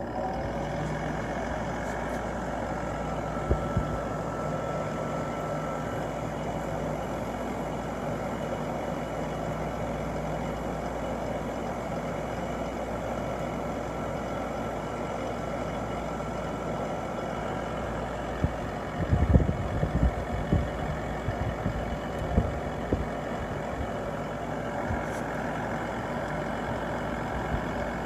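Sharp 8500 BTU window air conditioner running steadily just after being switched on: an even rush of fan air with a faint low hum. A cluster of short low thumps comes about two-thirds of the way through.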